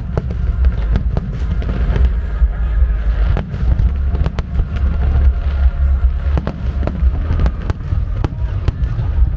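Aerial firework shells bursting in quick succession: many sharp bangs over a continuous low rumble.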